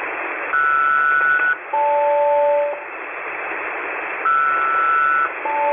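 SELCAL selective-calling tones over HF single-sideband aircraft radio: a two-tone chord held about a second, then a lower two-tone chord for about a second, the sequence sent twice. The ground station is calling an aircraft's SELCAL code as a check, over steady shortwave radio hiss.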